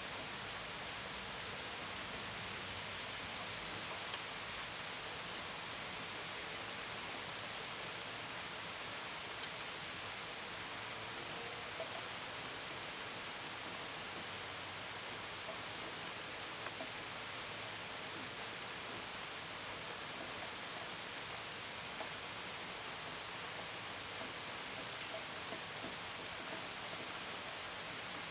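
Steady gentle rain, a constant hiss with scattered drops pattering against a window and gutters. Faint cricket chirps sound at intervals behind it.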